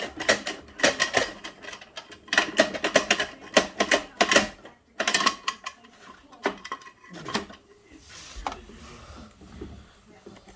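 Hard plastic clicking and clattering from Bruder toy garbage trucks being handled, in quick runs of clicks for the first five seconds, then a few scattered clicks.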